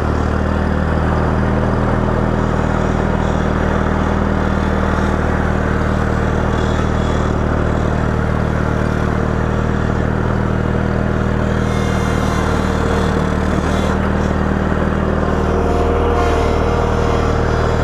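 A vehicle engine running steadily, with a faint higher whine coming in near the end.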